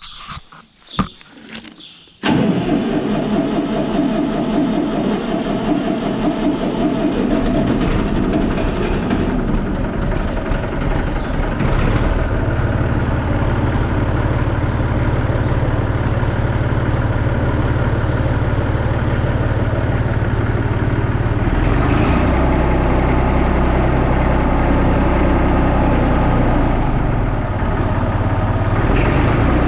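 Massey Ferguson 35X tractor's Perkins three-cylinder diesel starting after standing unused for a long time: a few knocks, then it fires about two seconds in and runs steadily, its note shifting twice later on.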